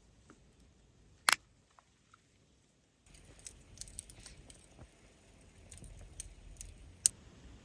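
Wood campfire crackling: scattered sharp pops over a low rumble, with a loud crack about a second in and another near the end.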